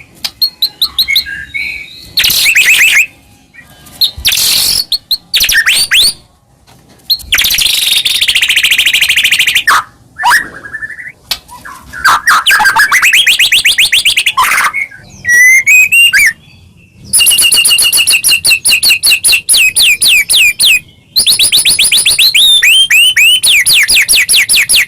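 White-rumped shama (murai batu) singing hard: a string of loud phrases made of rapid trills and chatters of quickly repeated notes and clear whistles, with short pauses between them.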